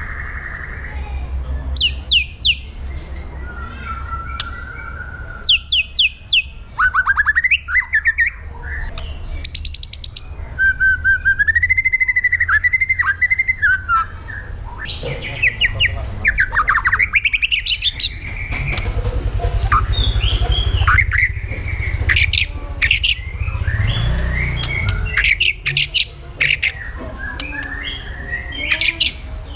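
White-rumped shama singing a loud, varied song of clear whistles, rapid trills, quick repeated notes and harsh chattering calls, over a steady low hum.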